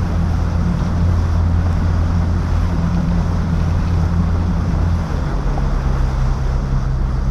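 Boat engine running steadily under wind and water noise; its low hum changes pitch about five seconds in.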